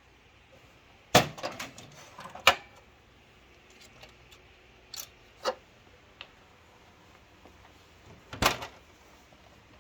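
Clicks and knocks from the plastic panels and parts of a Ricoh IM C2010 copier being opened and handled during removal of its transfer belt unit: a cluster of knocks early on, a few single clicks mid-way, and a louder knock near the end.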